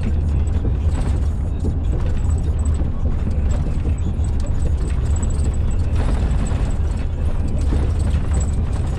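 Inside a truck cab driving on old original concrete autobahn: a steady deep drone of engine and road noise, with small irregular knocks and rattles from the rough surface.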